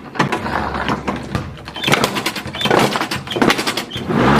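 Lawnmower running over a plastic electronic toy, its blade chewing up the plastic in uneven noisy crunches about once a second over the engine's low hum.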